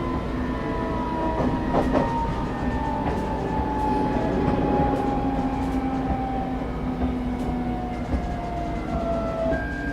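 Cabin of a moving electric commuter train: steady low rumble of wheels on rail, with motor whine tones sliding slowly downward in pitch and a few clacks about two seconds in.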